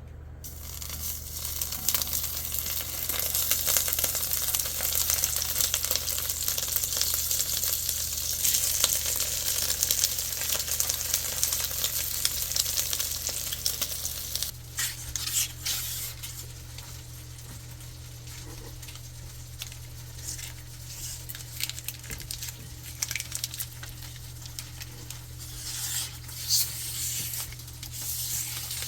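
Food sizzling in a frying pan, loud at first, then quieter from about halfway through, with scattered clicks and scrapes of stirring.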